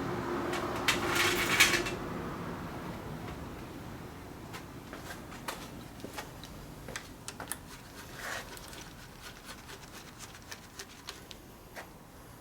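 Tools and parts clinking during work on a Toyota 4A-GE engine's oil pan: a short clatter about a second in, then scattered single clicks and taps.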